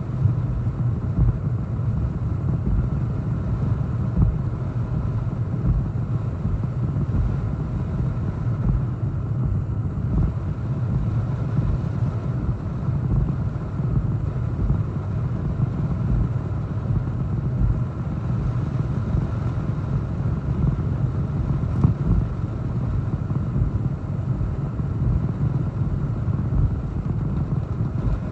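Strong hurricane wind buffeting the microphone: a steady low rumble with small uneven gusty thumps.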